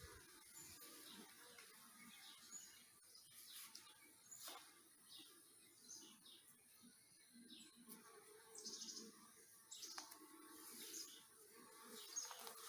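Faint birdsong: short, high chirps repeating every second or so.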